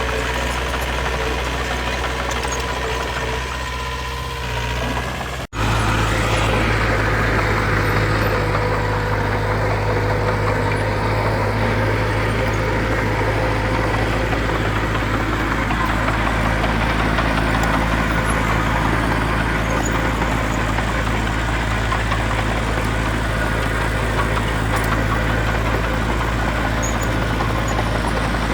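Heavy diesel engines of earthmoving machinery running steadily. The sound cuts off abruptly about five seconds in and comes back at once, louder and lower.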